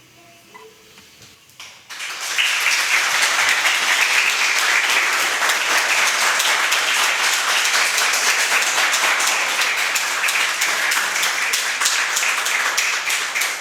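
Audience applauding after the final piece of a classical guitar recital. The last guitar notes die away, and about two seconds in the applause breaks out and holds steady and loud.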